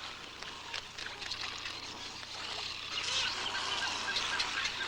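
A crowd of wading birds feeding in shallow water: water splashing and trickling under many short overlapping bird calls, growing busier about three seconds in.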